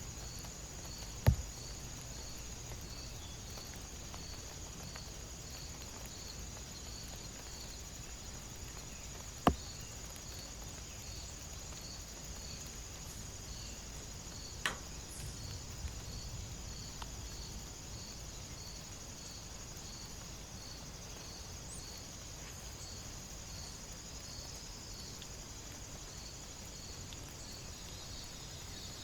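Crickets and other insects: a steady high trill with one cricket chirping about once a second, over a faint low hiss. A few sharp clicks stand out, the loudest about a second in and another near the middle.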